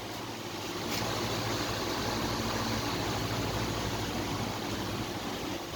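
Belt sander and polisher machine running steadily: a low electric-motor hum under a continuous hiss. It grows louder about a second in and then holds even, with a single click near that point.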